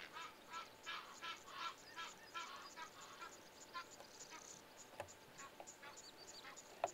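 Faint, rapid series of bird calls, about three a second, thinning out about three seconds in to scattered calls, with a couple of sharp clicks near the end.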